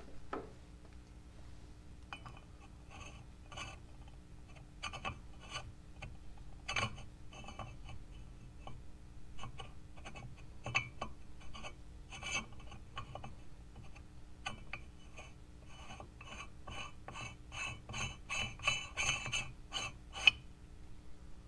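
Metal parts of a vintage meat grinder clinking and scraping as they are handled. The short, ringing clinks come irregularly, then more quickly and closely together near the end.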